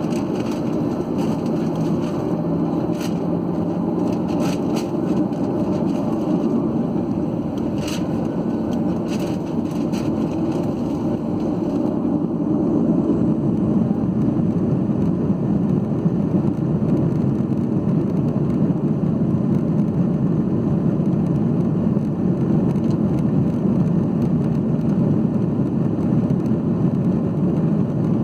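Steady, loud cabin rumble of a Boeing 737-8 and its CFM LEAP-1B engines, heard from inside the cabin. A few light clicks or rattles come in the first ten seconds, and the rumble grows a little louder about twelve seconds in.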